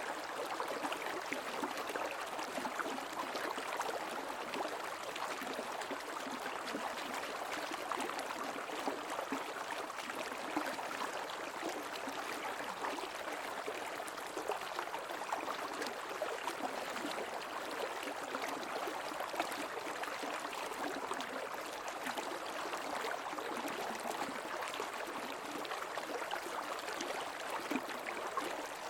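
Creek water flowing steadily, with an even babbling rush.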